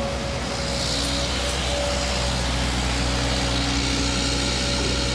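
Excavator engine running steadily, a continuous low hum with a steady higher tone over it.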